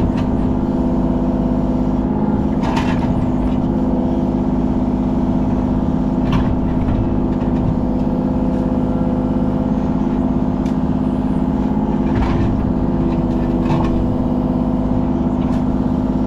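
Kubota KX033 mini excavator's diesel engine running steadily at working speed, with a few brief sharp noises from the machine at work.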